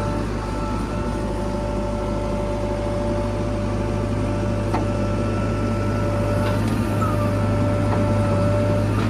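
Diesel engine of a JCB 3DX Xtra backhoe loader running steadily: a constant low hum with a steady higher whine over it and a few faint clicks.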